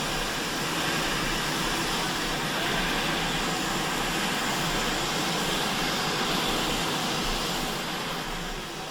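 Steady running noise of a train pulled by GWR Pannier Tank no. 6412, heard on board, fading down near the end.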